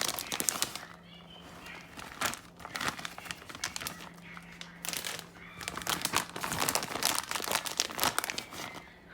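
Plastic cheese packet crinkling in repeated bursts while shredded mozzarella is shaken out of it.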